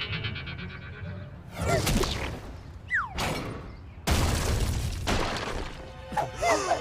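Cartoon action sound effects. A crash comes about a second and a half in, then a falling whistle, then a loud sudden smash about four seconds in that rings on for about a second. Short cartoon yelps follow near the end.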